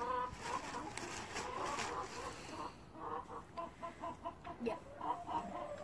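Soft, short clucking calls from a bird repeated over and over, most in the second half. In the first two seconds, a light rustle and crackle of dry twigs and crumpled newspaper being pushed into a small fire lay.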